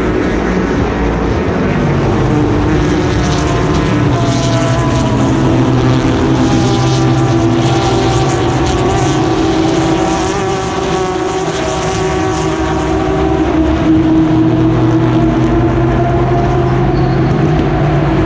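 A stream of endurance race cars passing close by, many engines overlapping and several rising in pitch as they accelerate out of the corner.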